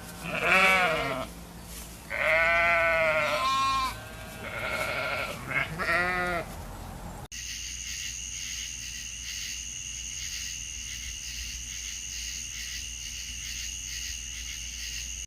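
A run of about five wavering bleats from goats or sheep over the first seven seconds. Then, after an abrupt cut, a steady high-pitched drone without any calls.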